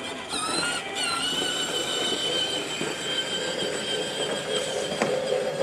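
A ride-on toy train's built-in electronic train sound effect: a whistle-like tone that slides up about a second in and then holds steady.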